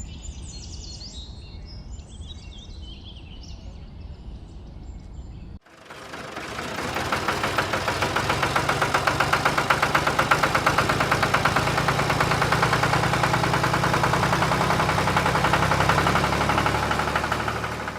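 Birds chirping over a low rumble, then after an abrupt cut a small motor or engine starts up and runs steadily with a rapid, even chatter, building up over about two seconds.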